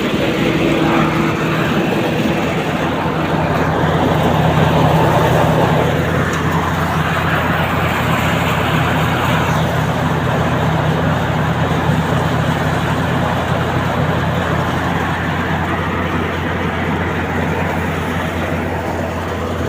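Tractor-driven threshing machine running steadily: a constant engine drone under a dense whirring rush from the machine.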